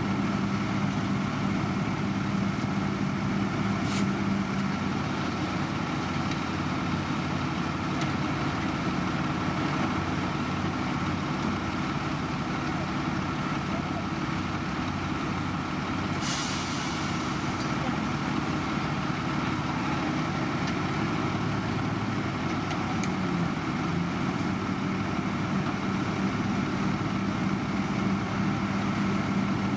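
Heavy diesel engine of road-construction machinery running steadily at a constant speed, with a short hiss about halfway through.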